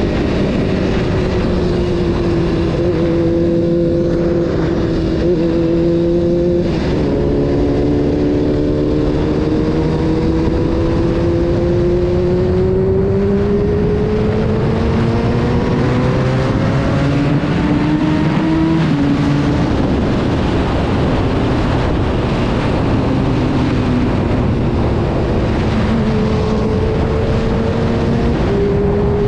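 Honda CBR 600 F4's inline-four engine running under way, its note climbing slowly for about ten seconds, then dropping sharply about 19 seconds in and holding steadier, over a steady rush of wind noise.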